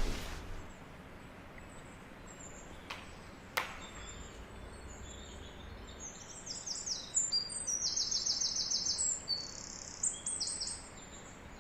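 Quiet background with two faint clicks, then high-pitched, rapid chirping trills, like birdsong, from about six seconds in until near the end.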